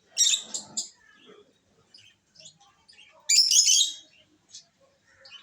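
Pet lovebirds chirping: two loud bursts of shrill chattering calls, one at the start and one about three seconds in, with scattered short chirps between.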